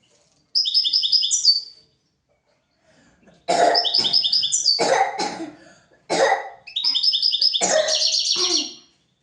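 European goldfinch singing in three bursts. Each burst mixes rapid high twittering trills with harsher, rasping notes.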